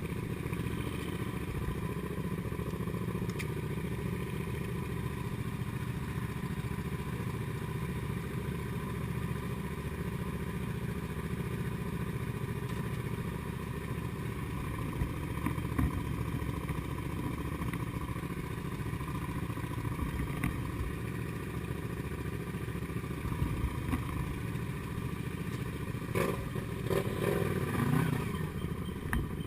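Comet GTR250 motorcycle's 250 cc V-twin engine running steadily, with a few knocks and rattles over it near the end.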